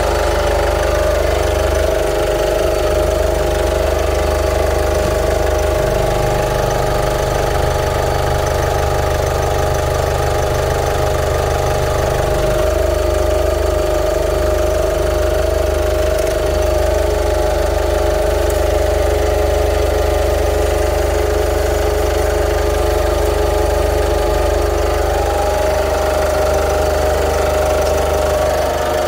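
Kia Sportage's engine idling steadily with an even hum.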